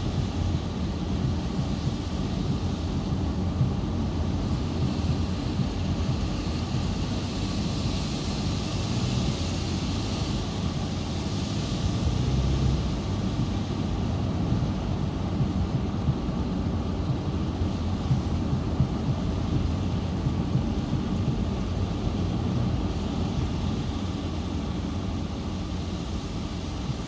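Steady storm wind rushing over the microphone with a low, fluttering rumble under an even hiss.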